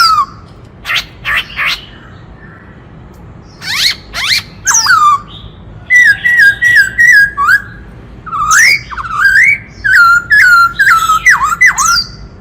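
Black-throated laughingthrush singing a varied, loud song: quick downward-sweeping notes, then a run of short repeated whistles, then rising and falling whistled phrases.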